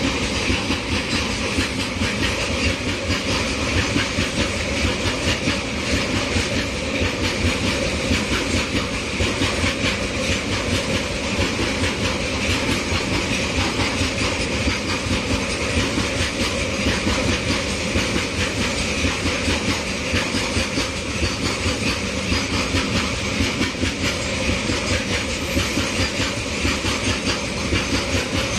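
Loaded coal wagons of a freight train rolling steadily past, their wheels clattering rapidly over the rail joints with a constant rumble.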